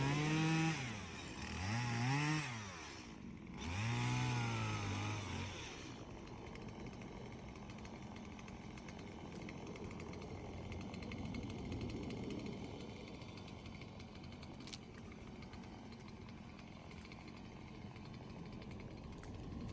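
Two-stroke chainsaw revved three times, its pitch rising and falling with each throttle blip, during the first several seconds. After that a quieter, steady mechanical running noise continues.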